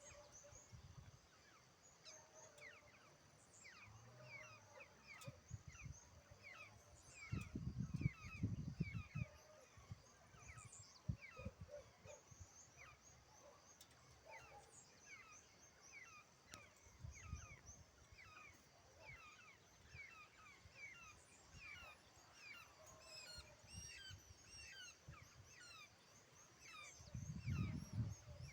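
Several small birds chirping together in short, quick, overlapping chirps, faint but continuous. There are low rumbles about eight seconds in and again near the end.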